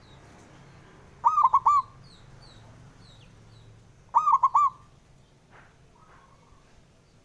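Zebra dove (perkutut) cooing its song twice, about three seconds apart. Each phrase is three quick, rolling, ringing notes.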